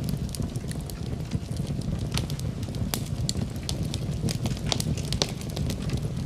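Wood fire burning in a fireplace: a steady low rumble of flames with irregular sharp crackles and pops, one louder snap about three seconds in.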